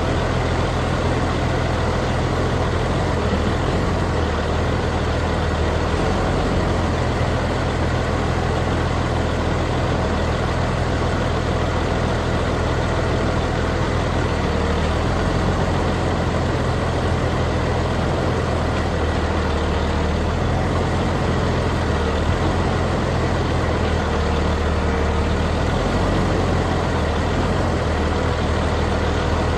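Heavy engine running steadily at a constant speed, a low even hum.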